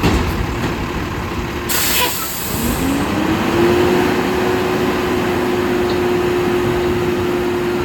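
Garbage truck running, with a short hiss of air about two seconds in; then its engine rises in pitch and holds at a steady higher speed.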